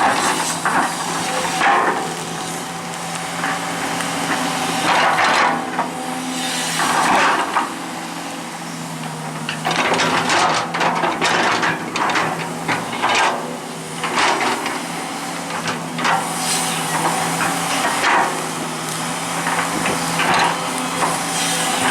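Komatsu hydraulic excavator engine running steadily, while the bucket scrapes and knocks against rock and concrete in irregular bursts every second or two.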